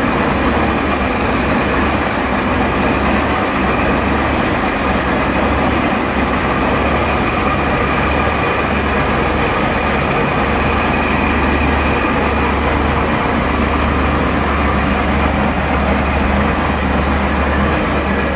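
Gardner 6LYT six-cylinder diesel engine running steadily, an even, deep drone.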